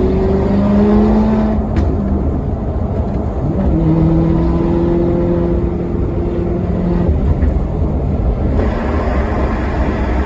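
Maserati Quattroporte Sport GT's V8 engine under acceleration, its note rising in the first second or so, then holding a steady pitch for several seconds, over a heavy low rumble.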